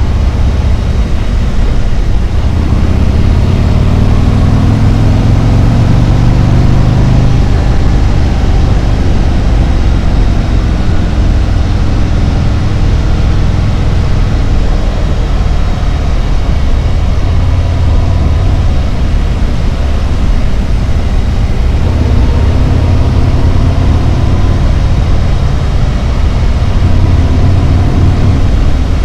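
Harley-Davidson Road Glide's V-twin engine running under way, heard loud over the rush of riding. Its note rises and falls with the throttle, pulling harder a few seconds in and again near the end.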